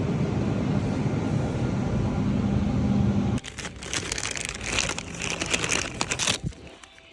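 Motorbike engine running steadily, cut off abruptly a few seconds in, followed by irregular crackling and rustling noise.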